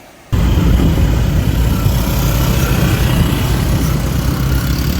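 Boat engine running steadily, loud and rumbling, under a hiss of wind and water noise; it starts abruptly just after the beginning.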